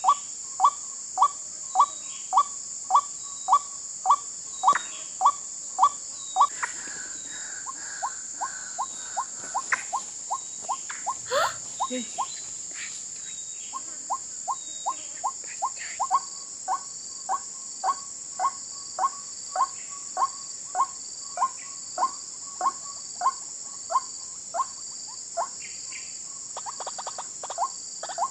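White-breasted waterhen (ruak-ruak) calling a short note over and over, evenly, a little under two a second, fainter for a stretch in the middle. A steady high insect buzz, like crickets, runs underneath.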